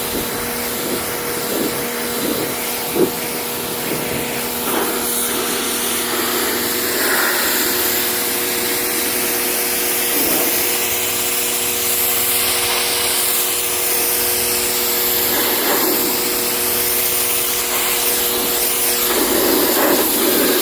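Wet/dry vacuum running steadily, its motor holding a constant pitch, as it pulls water out of soaked, pressure-washed car carpet.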